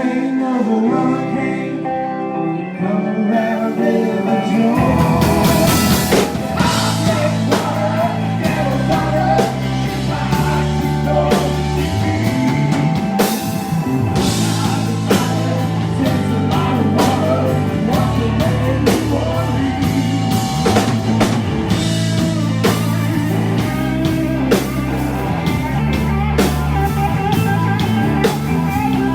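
A live rock-blues band playing: guitar over a sparse opening, then drums and bass come in a few seconds in and the full band plays on steadily.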